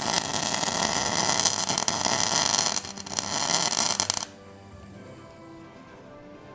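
Welding arc crackling during two tack welds on a steel axle bracket: a long burn, a short break near the three-second mark, then a shorter burn that stops suddenly about four seconds in. Quiet background music follows.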